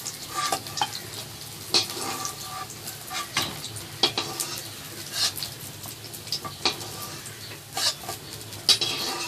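Prawn pakoras sizzling in hot mustard oil in a kadhai, with repeated scrapes and clinks of a utensil against the pan as they are lifted out of the oil.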